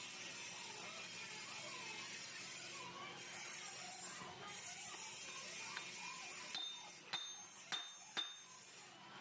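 Faint steady background hiss, then about three light metallic clinks in the last few seconds, each ringing briefly: hard metal parts knocking together.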